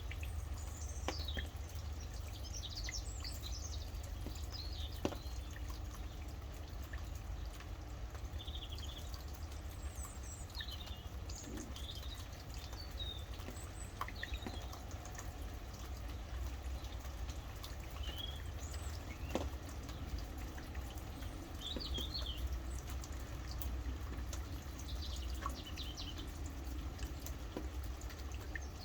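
Rain falling, with scattered drips over a steady low rumble, and small birds chirping and trilling in short phrases every few seconds.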